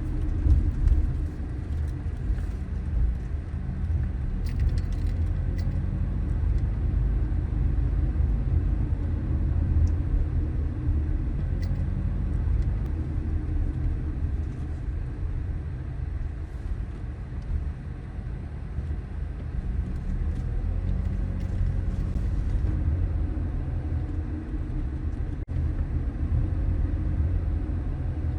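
A car driving on city streets: a steady low rumble of engine and tyres on the road, its pitch rising and falling slightly a few times.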